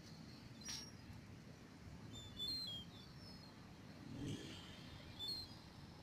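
A few short, high bird chirps over a low, steady background rumble, with a brief click under a second in.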